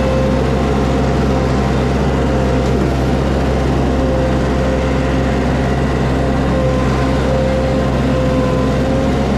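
Mini skid steer's engine running steadily under load, a constant drone with a steady whine above it.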